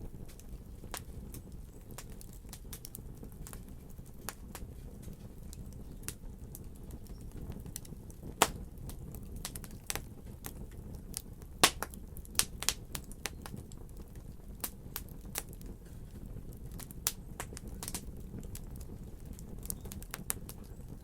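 Fireplace fire crackling: irregular sharp pops and snaps over a low steady rumble, with two louder pops about eight and twelve seconds in.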